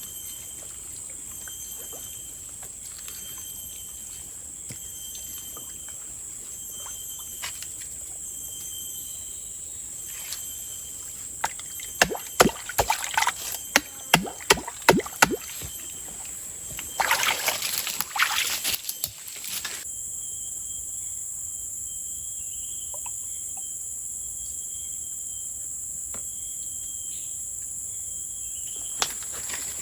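Stream-side forest ambience with insects buzzing steadily at a high pitch. About halfway through come a run of sharp clicks and knocks, then a couple of seconds of water sloshing and splashing.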